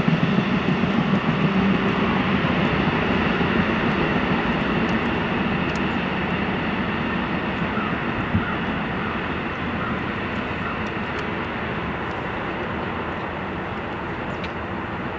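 Amtrak passenger train rolling away down the line, its rumble slowly fading as it recedes.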